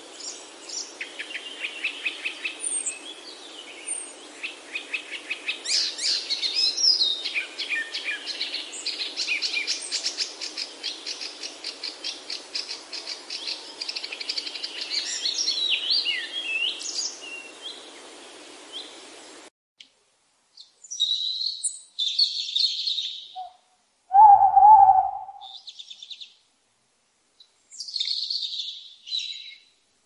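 Small songbirds singing in fast, rapidly repeated trills and chirps over a soft steady hiss. About two-thirds through, the hiss and chorus cut off abruptly, leaving separate short bursts of chirping. A little later comes one louder, lower-pitched call.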